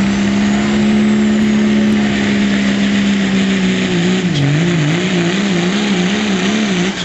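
Diesel pickup truck engine at full throttle, pulling the sled at high rpm with a steady pitch. About four seconds in, the engine pitch starts wavering up and down about twice a second and sags a little until the end.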